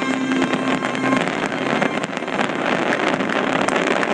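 Fireworks going off in a dense, continuous barrage: a steady rush of noise packed with rapid crackles.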